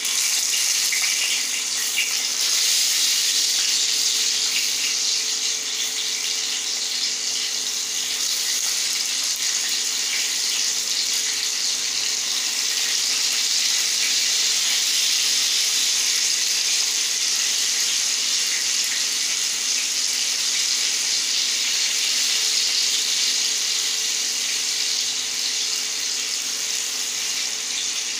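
Brinjal (eggplant) slices sizzling steadily in hot oil on a flat tawa griddle, a continuous even hiss.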